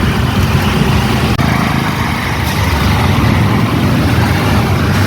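Car engine and tyre noise heard from inside a moving taxi's cabin: a steady low rumble.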